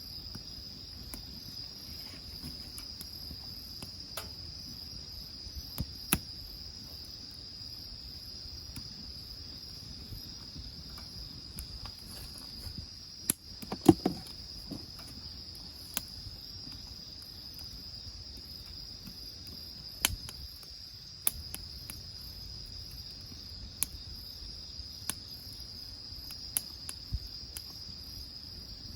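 Crickets chirring in a steady high chorus, with the sharp pops and crackles of a wood fire scattered through it and a louder knock or clatter about halfway through.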